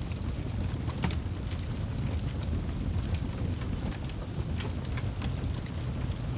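Wood fire burning in a fireplace: a steady low rumble of flames with scattered sharp crackles and pops from the burning logs, one louder pop about a second in.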